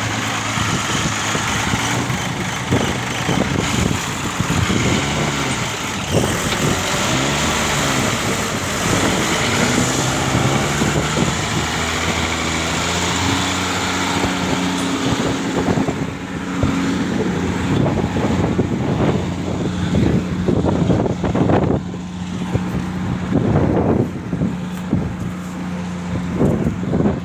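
Ashok Leyland truck engine running steadily, its pitch stepping up and down several times as engine speed changes. Irregular knocks and rattles join in during the second half.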